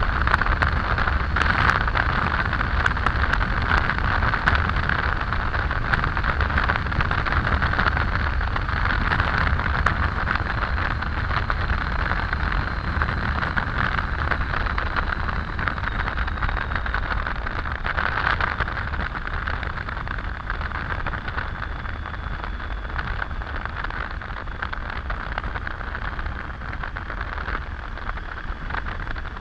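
Triumph Tiger 800 motorcycle riding at speed: steady wind rush and road noise, with a few light clicks in the first few seconds, easing slightly near the end.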